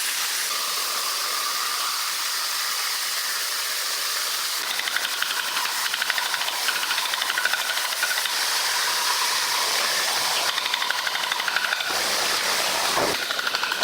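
Sawmill machinery running: a steady hiss, joined about five seconds in by a fast mechanical rattle.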